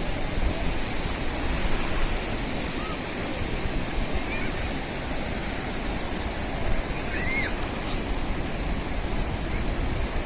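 Sea waves washing steadily onto a sandy beach, with a few faint high chirps over the surf.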